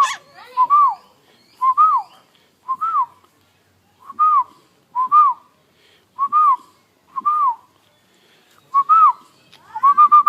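Indian ringneck parrot whistling a short two-note phrase over and over, about once a second: a brief note and then a rising-and-falling one. Near the end come a few notes in quick succession.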